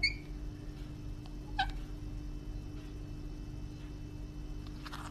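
Two short animal calls, one at the very start and one about a second and a half in, over a steady low hum.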